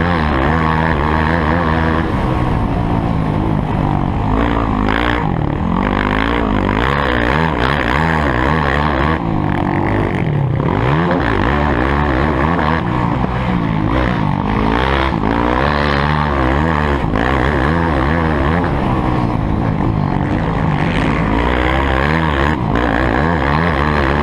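Motocross bike engines revving up and down as they ride the track, the pitch rising and falling over and over with several engines overlapping.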